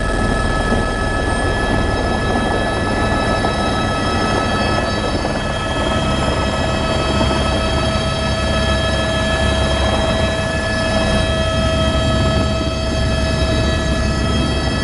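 Helicopter running steadily: a constant turbine whine with several held tones over a loud rumbling rotor and engine noise.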